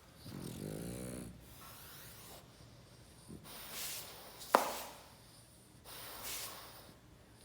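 A sleeping dog snoring: one pitched snore in the first second, then softer, hissy breaths. A single sharp click about halfway through.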